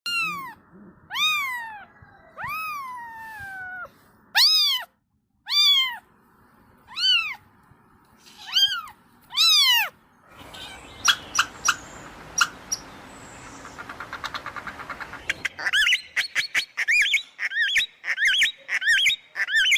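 Domestic cat meowing repeatedly, about eight separate rising-and-falling meows over the first half. After that the sound changes to a run of sharp clicks and quick, short, high-pitched chirps from another animal.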